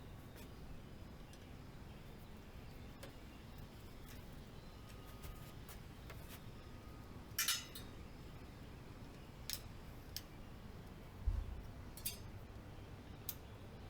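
Scattered metallic clicks and clinks of hand tools and bicycle parts being handled during disassembly, the loudest a short clatter about seven seconds in, with a dull low thump a few seconds later.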